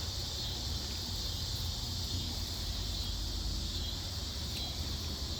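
Steady outdoor background: a continuous high insect drone, like crickets, over a low steady rumble.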